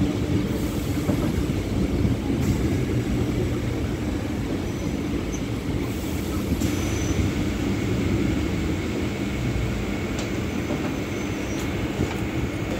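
Suburban electric multiple-unit train heard from on board near the open door, running steadily: a continuous rumble of wheels on rail with a few sharp clicks and knocks from the track.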